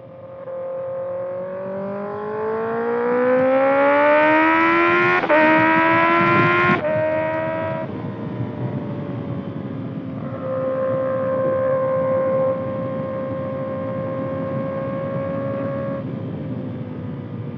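Kawasaki ZX-6R's 636 cc inline-four through a Voodoo Racing slip-on exhaust, accelerating: the engine note climbs steadily in pitch for about five seconds, breaks briefly, climbs a little more, then drops suddenly as the throttle closes near seven seconds. It then settles into a steady cruising note for the rest of the time.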